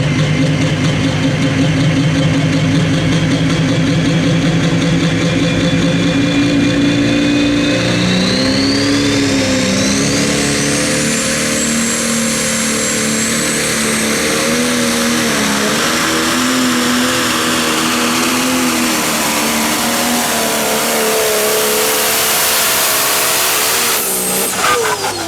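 Pro Stock pulling tractor's turbocharged diesel engine running at full power under load, a high whine climbing in pitch about eight seconds in and the engine note wavering as it pulls. About a second before the end the engine drops off suddenly and the pitch starts to fall as it shuts down.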